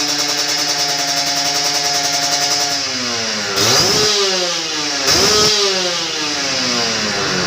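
Kawasaki Ninja RR two-stroke single revving through an Aitech stainless exhaust. It is held at a steady high rev, then the revs fall. Two quick throttle blips come about three and a half and five seconds in, each followed by the revs dropping back.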